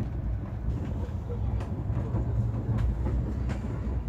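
Express passenger train running, heard from aboard: a steady low rumble of the coach on the track, with a few sharp clicks scattered through it.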